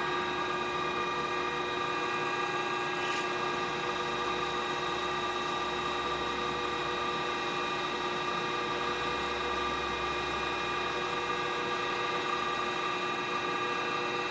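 A machine tool running steadily, sped up a little: a continuous whine of several fixed pitches that stays even and never changes.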